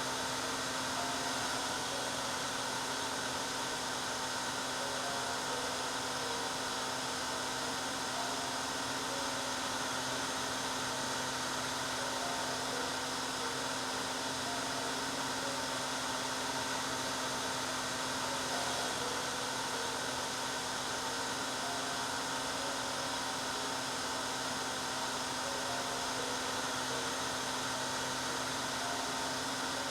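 Hair dryer running steadily: an even rush of air with a constant motor hum underneath.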